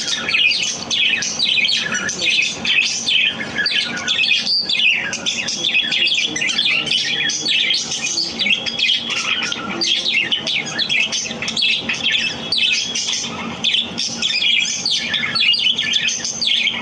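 Pet budgerigars chirping and chattering, a dense, continuous stream of quick high chirps and warbles with occasional harsher squawks.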